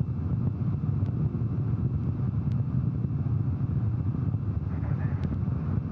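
Steady low rumble in the launch broadcast's audio feed, with a couple of faint clicks.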